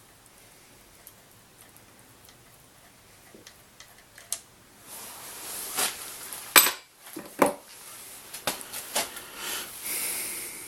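Metal hand tools and engine parts clinking and knocking against each other during work on the camshaft. A few faint ticks come first, then a run of sharp metallic knocks and clicks, with two loud ones near the middle.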